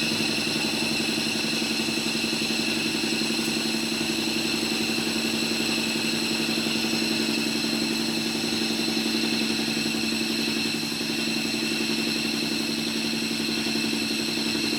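A workshop machine running steadily, a constant hum with a high whine above it, cutting off suddenly at the end.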